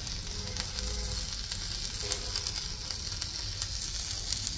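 Dosa sizzling in ghee on a hot flat griddle (tawa): a steady frying hiss with scattered small crackles.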